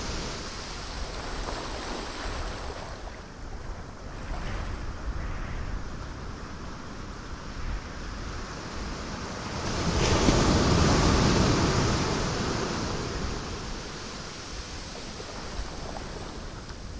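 Ocean waves breaking on rocks, a steady rushing wash with one large wave surging about ten seconds in and slowly draining away.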